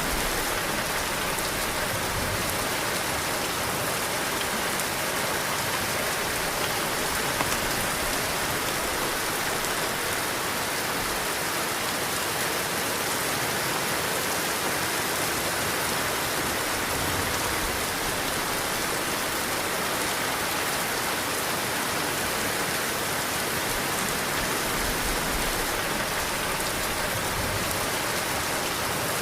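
Heavy rain falling steadily: a dense, even hiss of drops on surfaces, with one sharper drop tick about seven seconds in.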